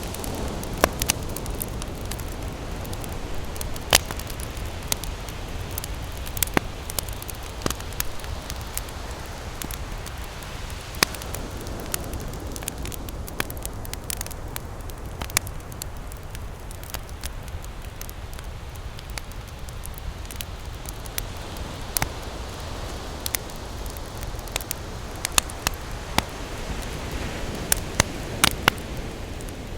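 Campfire crackling, with frequent sharp, irregular pops from the burning wood, over the steady low wash of ocean waves that swells near the start and again near the end.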